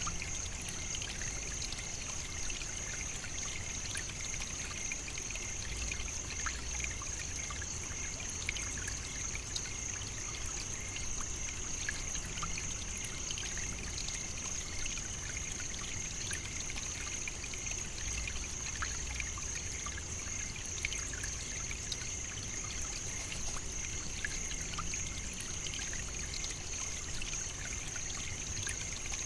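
Steady African savannah nature ambience: a continuous high-pitched tone over an even, water-like hiss, sprinkled with faint scattered clicks.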